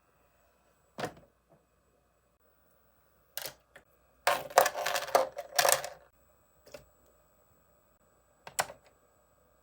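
Skincare products being set down and arranged in a mini fridge: scattered sharp clicks and knocks, with a quick clattering run of them about four to six seconds in.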